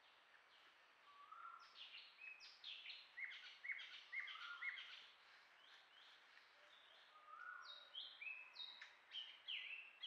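Wild birds chirping, faint: many quick, falling chirps and short whistles in two bouts, one starting about a second in, then a pause, then more from about seven seconds.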